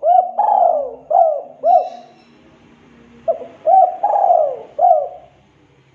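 Spotted dove (tekukur) cooing: two phrases of about four notes each, the second beginning a little past three seconds in.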